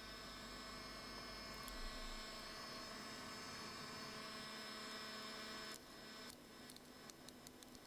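Faint, steady electrical hum, with a few light clicks about six to seven and a half seconds in.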